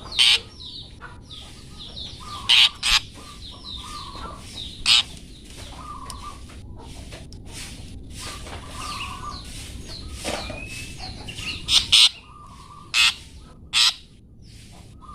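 Long-tailed shrike (cendet) birdsong: busy, continuous chattering and short repeated notes. Loud harsh calls break in several times, mostly near the start and near the end.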